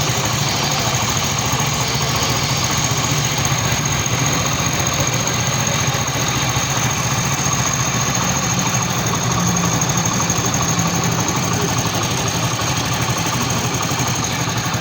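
Honda 125 motorcycle's single-cylinder engine idling steadily.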